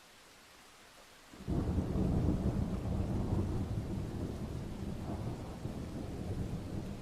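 Thunder: a faint steady hiss of rain, then about a second and a half in a deep rumble of thunder breaks in suddenly, swells for a couple of seconds and slowly dies away while the rain goes on.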